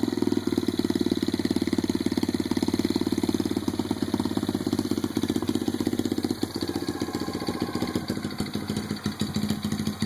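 2009 Kawasaki KLX110's small four-stroke single-cylinder engine idling through an aftermarket exhaust, with a steady, rapid string of firing pulses. The idle note settles slightly lower about seven seconds in.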